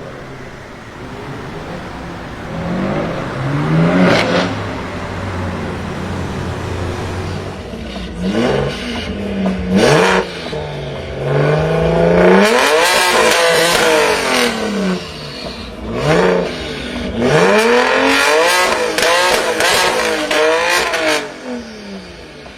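A tuned BMW performance car's engine revved hard several times in succession, its pitch climbing and falling with each blip, with sharp cracks from the exhaust as the revs drop.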